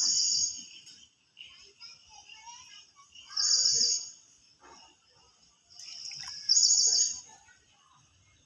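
Birdsong: a loud, high trilled phrase repeated three times, about every three seconds, with fainter chirps between.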